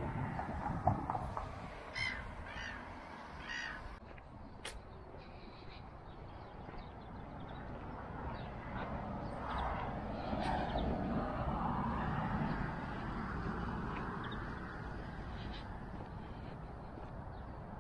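Three harsh, caw-like bird calls a couple of seconds in, then a broad rush of noise that swells and fades in the middle.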